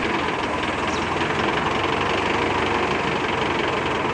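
A 90 hp tractor's engine running steadily.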